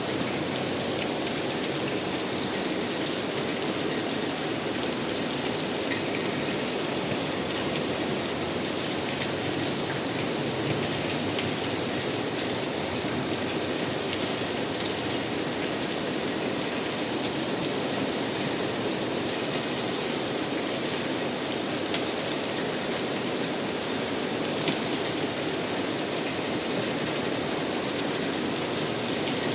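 Steady rain falling, an even patter of drops on a surface with scattered faint ticks of single drops.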